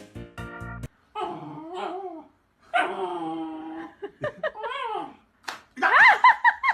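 A dog vocalizing in drawn-out, pitched calls that bend up and down, then a quick series of loud, high yips near the end.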